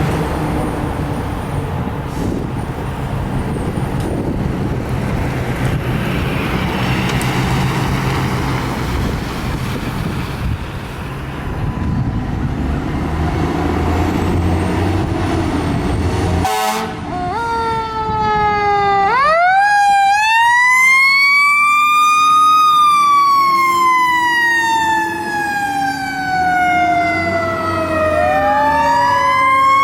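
Fire apparatus diesel engine and road noise, then after an abrupt break about halfway in a mechanical siren winds up to a high wail and slowly coasts down in pitch. It winds up again near the end.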